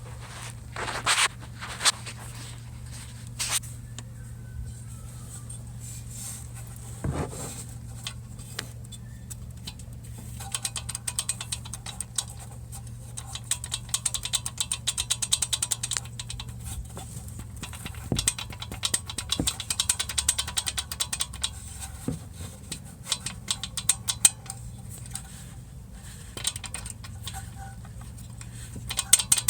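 VW Golf Mk7 1.4 TSI engine running with a steady hum, overlaid by a rapid metallic rattle from the turbocharger's wastegate actuator that comes and goes in clusters. A few separate clicks come in the first seconds, and the rattle grows denser from about ten seconds in, heaviest near the end.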